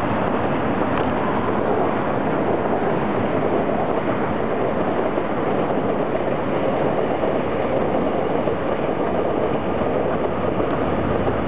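Meitetsu electric train running past: a steady rumble of wheels on rails that holds at an even level without any breaks.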